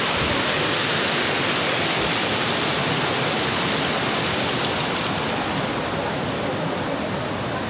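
Waterfall rushing with a loud, steady roar of falling water, easing slightly over the last couple of seconds.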